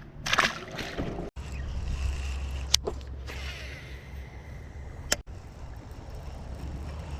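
Wind buffeting the microphone with water sloshing against the boat, a brief splash about half a second in, and two sharp clicks a few seconds apart.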